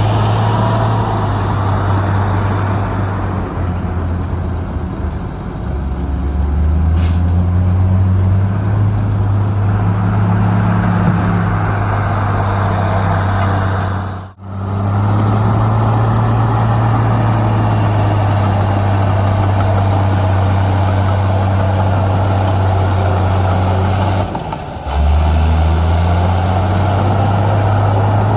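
Diesel engine of heavy earthmoving machinery running steadily, its pitch stepping up and down as the load changes; the sound drops out abruptly about halfway through and briefly again near the end.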